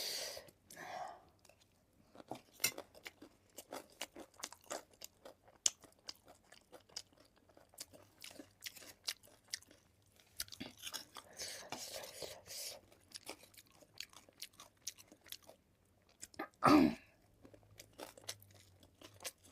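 Close-up chewing of crunchy food, a run of many small sharp crunches, most likely spicy gilo chatpate, with a louder mouth sound about 17 seconds in.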